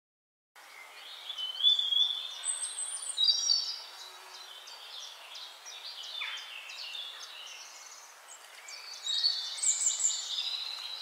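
Several birds chirping and twittering in quick, high calls over a steady hiss. The calls are busiest in the first few seconds and again near the end.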